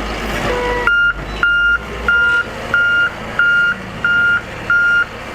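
Backup alarm on a Case 821F wheel loader, starting about a second in and beeping steadily at one pitch about one and a half times a second as the loader reverses. The diesel engine runs underneath.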